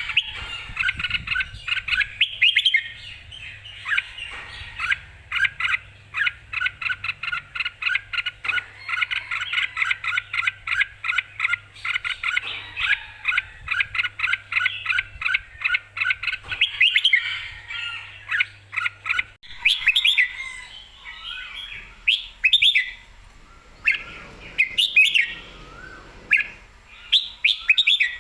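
Red-whiskered bulbul singing: a fast, even run of short, clear chirping notes, which about two-thirds of the way in breaks up into separate, varied warbled phrases.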